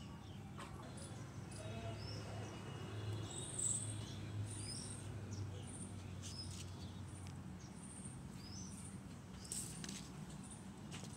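Small birds chirping, short high chirps repeating about once or twice a second, over a faint low steady hum and a few soft clicks.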